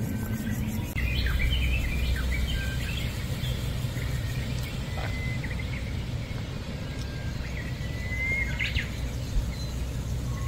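Small birds chirping, with scattered short chirps and a few thin, level whistles, over a steady low rumble.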